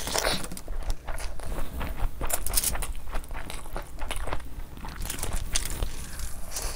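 Close-miked eating sounds of a person chewing handfuls of mutton curry and rice: wet chewing and smacking with irregular clicks, several a second.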